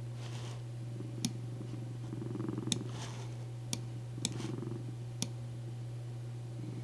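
Domestic cat purring in soft waves, with five sharp clicks scattered through the middle, over a steady low hum.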